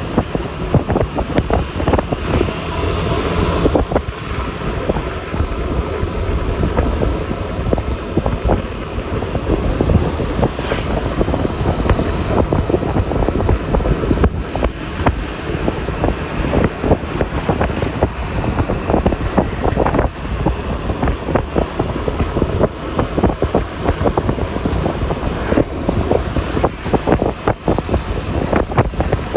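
Wind rushing and buffeting over the microphone of a moving scooter, over steady road and engine noise from the Yamaha Lexi LX 155.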